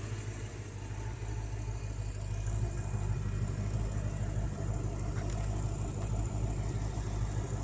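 1988 Callaway Corvette's twin-turbo V8 idling steadily.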